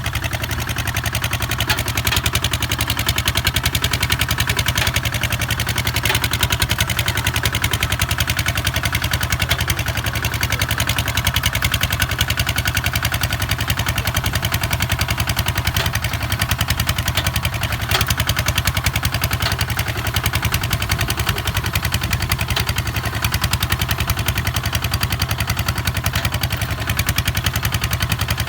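Kubota ZT 155 DI single-cylinder diesel engine running steadily, with a fast, even beat.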